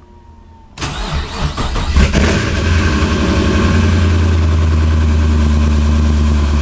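GM LS V8 engine, fresh from a DoD delete, cranked by the starter just under a second in, catching about a second later with a brief flare and settling into a steady idle: its first start after the rebuild.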